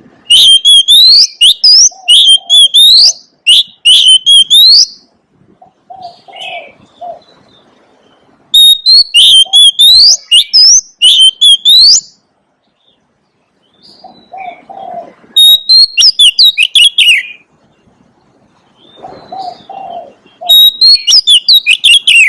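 Oriental magpie-robin singing: four loud bursts of rapid, high whistled phrases, with softer low notes in the gaps between them.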